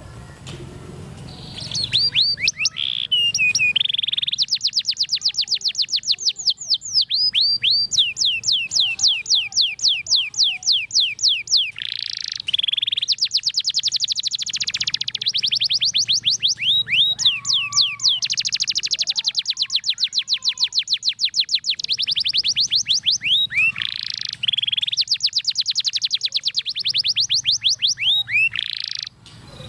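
Domestic canary singing a long, unbroken song of rapid, high-pitched trills of repeated notes, broken now and then by sweeping notes. It starts about a second and a half in and stops abruptly near the end.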